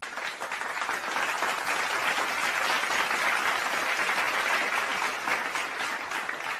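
Applause: many hands clapping, starting suddenly and holding steady.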